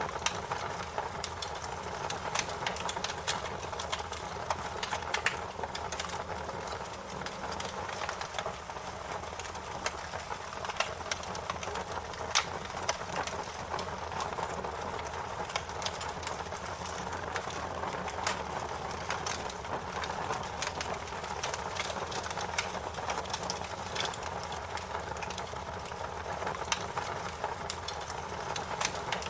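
Fire crackling: irregular sharp pops and snaps, scattered unevenly, over a steady hiss and low rumble of burning.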